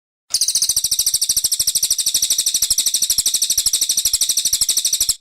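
Brown cililin songbird's rapid, high, steady trill of about fifteen notes a second, starting abruptly and cutting off suddenly.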